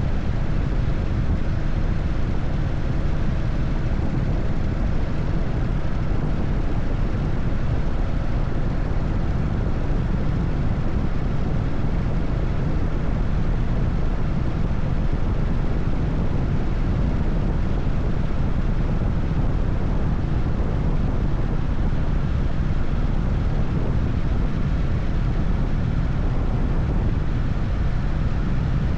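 Harley-Davidson Evolution V-twin engine on an FXSTS Springer Softail running steadily at highway cruising speed, a constant low drone that holds at the same pitch and level throughout.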